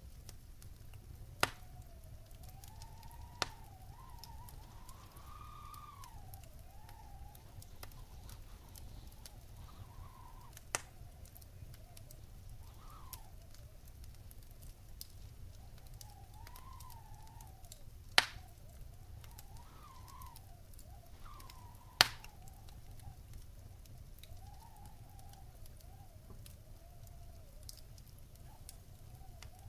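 Wood fire crackling in a fireplace: a steady low rumble of flames with about five sharp pops from the burning logs, the two loudest about two-thirds of the way through. A faint whistle wavers up and down in pitch underneath.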